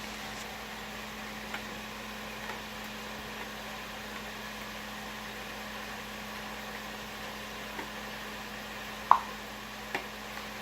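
Dressing being stirred in a bowl: a few faint clicks and, about nine seconds in, one sharp clink of a utensil against the bowl, with a smaller one just after. A steady low hum runs underneath throughout.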